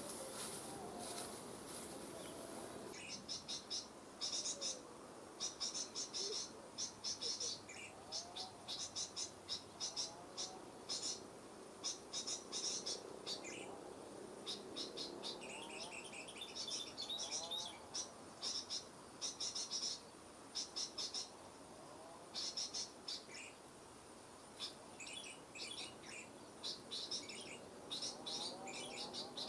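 Small birds twittering in rapid runs of high, thin chirps that come in bursts separated by short pauses, with fainter lower calls underneath.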